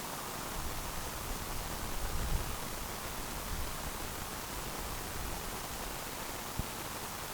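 Steady wind hiss, with low rumbling gusts buffeting the microphone about two seconds in and a single sharp click near the end.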